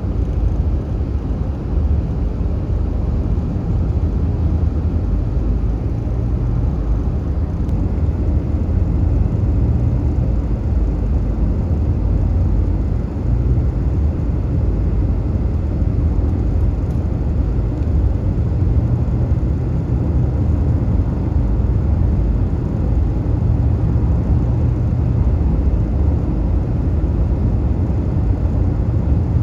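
Steady low rumble of a fire engine travelling at highway speed: engine and road noise, with no siren sounding.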